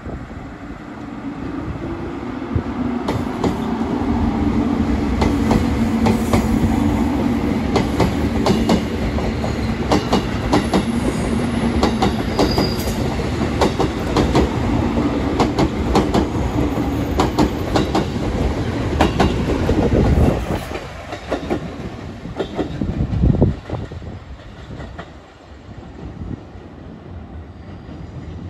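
A JR Kyushu 783-series limited express (Midori/Huis Ten Bosch) running past the platform. There is a steady electric hum and a rapid clickety-clack of wheels over rail joints that builds over the first few seconds. The sound drops off sharply about two-thirds of the way through as the train moves away. A single loud thump comes shortly after, and a fainter rumble follows.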